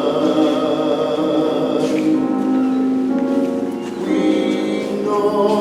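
Choir singing a slow hymn in long held chords, the harmony shifting about two seconds in and again near the end.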